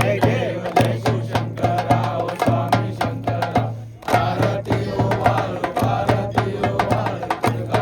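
Banjo band playing a fast drum beat under a melody line, with a brief break in the beat at about four seconds in.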